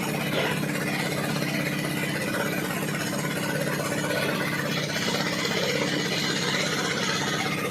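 Steady machine rumble with a constant hum and fast, even pulsing, like a large engine running.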